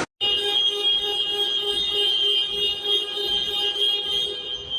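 Electronic alarm sounding: a steady high-pitched tone, with a lower tone pulsing beneath it, beginning just after a brief cut.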